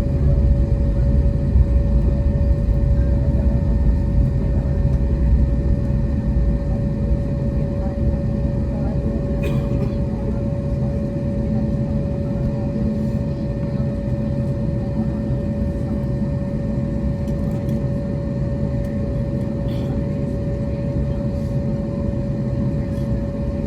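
Inside the cabin of an Airbus A321neo, the jet engines and airflow make a steady loud rumble with a constant droning tone, easing a little in loudness after the first few seconds.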